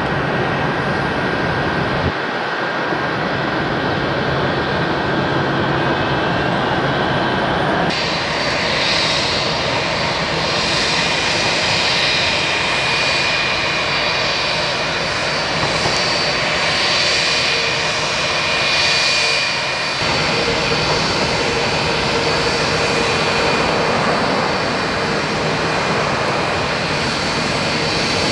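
Jet airliner engines running, a loud steady rush of noise with a high whine over it. The sound changes abruptly three times, about 2, 8 and 20 seconds in, as one aircraft's sound gives way to another's.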